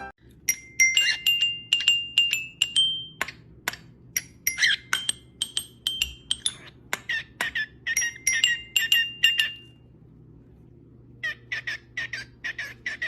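A parrot making short, sharp, high chirps and clicks in quick runs, then a pause, then a faster series of chirps near the end.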